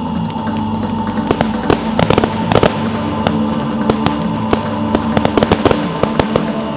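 Fireworks going off in quick, irregular bangs and crackles, over music playing along with the display.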